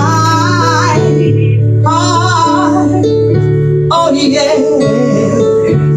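Female gospel singer vocalising in three short wavering phrases with vibrato, over sustained instrumental chords.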